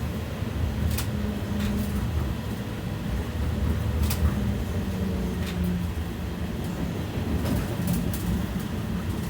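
A BKM 60102 tram running on its rails, heard from inside: a steady low rumble of wheels and running gear with a faint electric motor hum. Several sharp clicks and knocks come at irregular moments.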